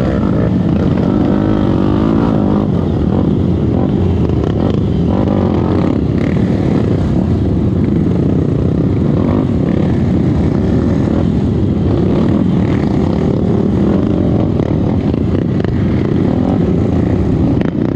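Trail motorcycle engine running steadily under load, its note wavering up and down in the first few seconds.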